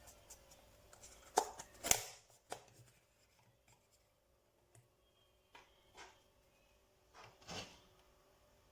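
Handling noises: short clicks and rubbing sounds, loudest in a cluster near the start, with a few fainter ones later, over a faint steady hum.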